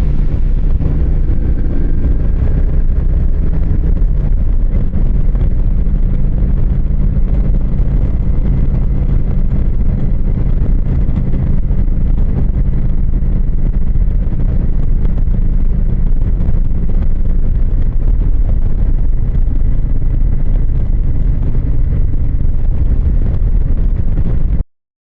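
Motorcycle engine running at a steady cruising speed, with wind rushing over the microphone. It cuts off suddenly near the end.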